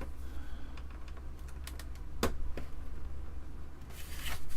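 A few scattered small plastic clicks and taps as fingers work at the Amiga 500's plastic side cover and its latch, the sharpest about halfway through and a brief rustle near the end, over a low steady hum.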